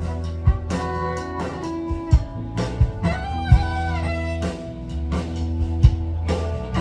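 A live band playing an instrumental passage: guitar over a steady bass line, with a kick drum beating out the rhythm.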